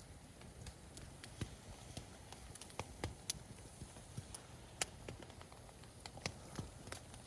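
Wood campfire crackling, with irregular sharp pops and snaps, a few louder ones about three and five seconds in.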